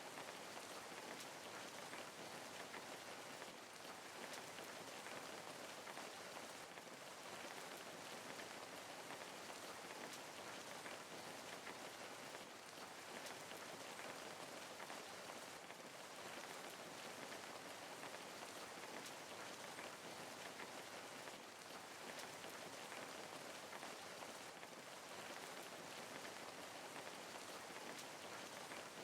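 Steady rain falling on a surface, a continuous patter of many raindrops with no let-up.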